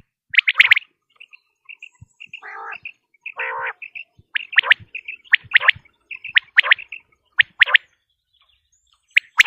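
Quail calling: sharp, loud call notes repeated about once a second, between runs of short high pips, with two longer rasping, lower calls a couple of seconds in.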